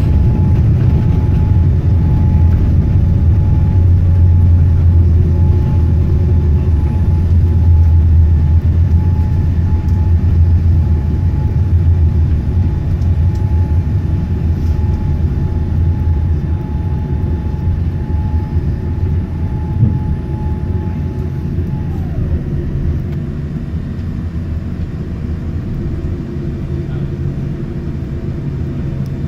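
Boeing 787 airliner heard through the landing: a heavy low rumble with a steady engine whine. About 22 seconds in the whine glides down, and the rumble eases off toward the end.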